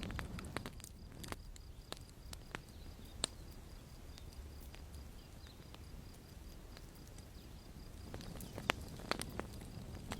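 Campfire crackling: irregular sharp pops and snaps over a low, steady rumble, with two louder pops about three seconds in and near the end.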